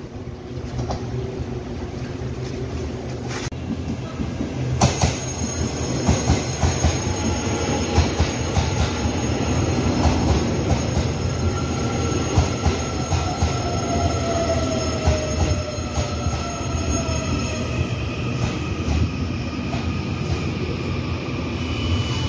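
Taiwan Railway commuter electric train pulling in along the platform and slowing: a steady rumble of wheels on rail with rapid clicks, and a whine that falls slowly in pitch as the train brakes. A high thin squeal near the end.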